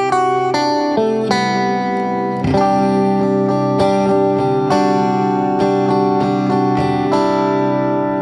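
Solo guitar playing a melodic line in the Lydian mode, single plucked notes every half second or so ringing over sustained lower notes.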